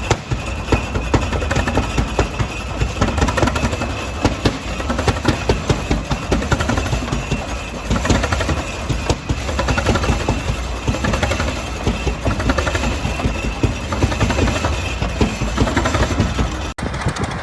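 Big old Holt engine running with a rapid, loud beat of firing pulses. Near the end the sound cuts off suddenly and another running engine takes over.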